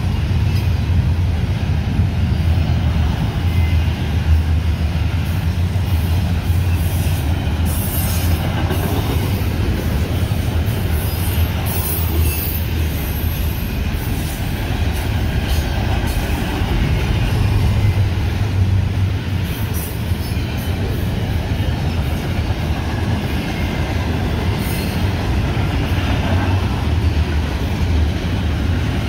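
Double-stack intermodal well cars of a long freight train rolling past, a steady rumble of steel wheels on rail with brief high-pitched wheel squeals now and then.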